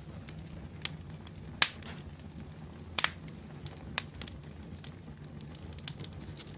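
Open fire crackling, with scattered sharp pops over a low steady rumble; the loudest pop comes about one and a half seconds in, and a quick double pop follows about a second and a half later.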